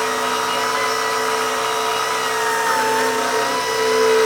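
Small electric motors of RC scale-model construction equipment (a loader and a sawdust conveyor plant) running with a steady whine; one of the pitches sags briefly about three seconds in, as under a moment of load.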